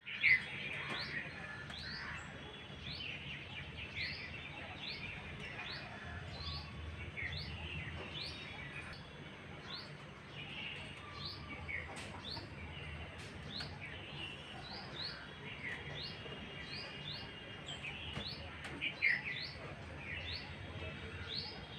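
Bulbul calling: a run of short rising chirps, about one or two a second, mixed with fuller chattering call notes, over a steady low background hum.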